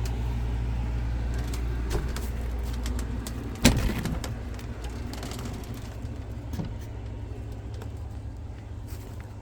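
A steady low rumble, with one sharp bang a little under four seconds in and a few light clicks.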